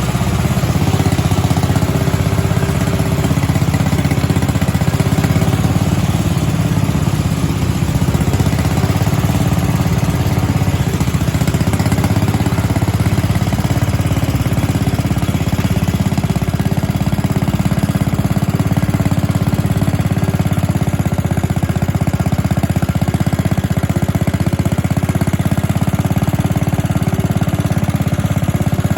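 Sears Suburban garden tractor engine running steadily at idle; it comes up a little about a second in, then holds even.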